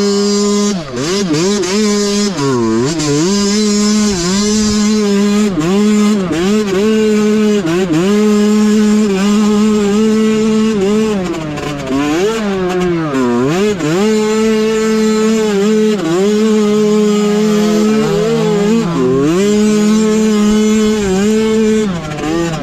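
Mini bike's small engine running at high, nearly steady revs, with repeated short dips in pitch as the throttle is let off and opened again.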